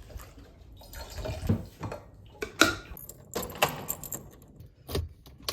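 A string of irregular clinks, clacks and rattles of small objects being handled, with sharper knocks about two and a half, three and a half and five seconds in.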